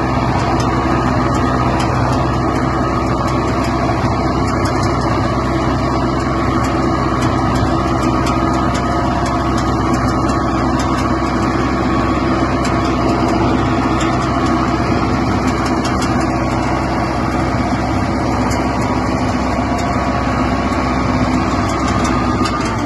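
Mahindra Arjun Novo 605 tractor's diesel engine running steadily under a seed drill, with faint irregular ticking over it.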